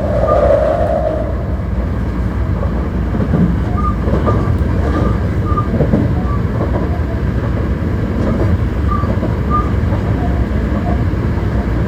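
Hankyu 1300 series electric train running at speed, heard from inside the car: a steady rumble of wheels on rail and running gear. A mid-pitched tone from the drive fades out about a second in.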